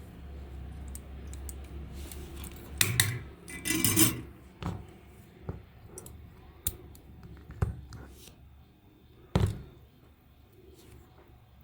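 Small hard objects being handled: a scattering of sharp clicks and knocks, with a short scraping rustle about three to four seconds in and a louder knock about nine seconds in.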